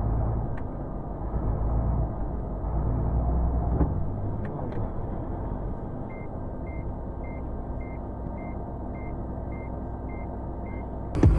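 Car running, its low engine and road rumble heard from inside the cabin, with a few faint clicks. About halfway through, a short electronic beep starts repeating just under twice a second, nine times. Near the end the sound cuts abruptly to something much louder.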